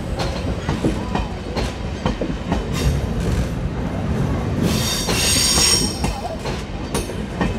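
Deutsche Bahn passenger train rolling past close by on a steel truss bridge, its wheels rumbling and clicking over the rail joints, with a brief high wheel squeal about five seconds in.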